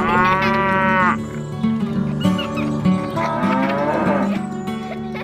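Cow mooing twice, each call about a second long, over background music.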